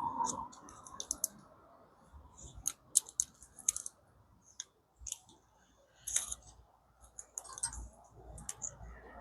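Scattered light clicks and scrapes of hands working at an exhaust pipe joint while sealant paste is applied, in irregular little clusters.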